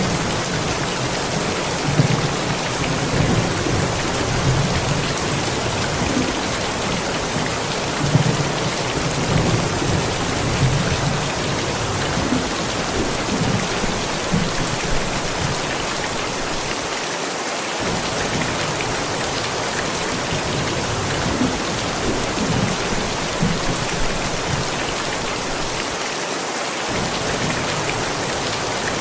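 Steady heavy rain falling in a thunderstorm, with low thunder rumbling underneath in swells, stronger in the first half and fading away twice for a moment.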